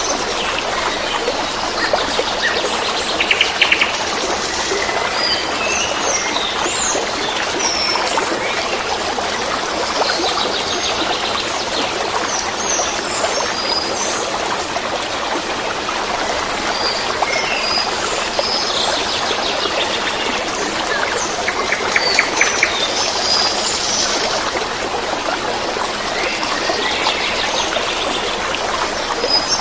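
Water babbling and trickling steadily, with small songbirds chirping and trilling over it throughout.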